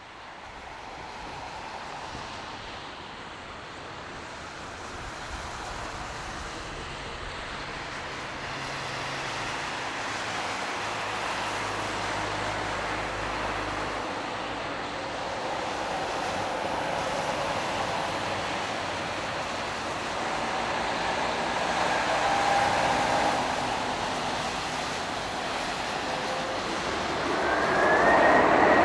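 Airbus A330-300 airliner's jet engines on final approach, a broad roar growing steadily louder as the aircraft nears. A high whine rises in near the end.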